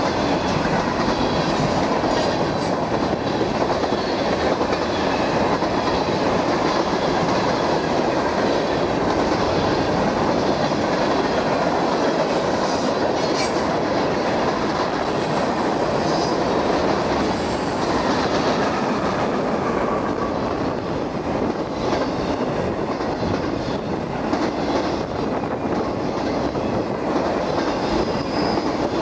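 Freight train cars rolling past on the near track, a steady loud rumble and clatter of steel wheels on rail.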